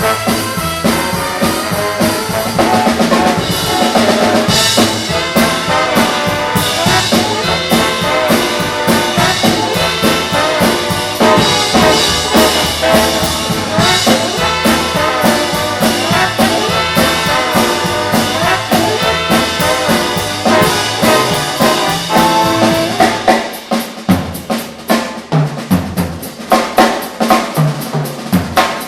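Live big band playing swing, with trumpets and trombones over a drum kit. About five seconds before the end the horns drop out and the drummer plays a solo break of sharp snare and rim hits.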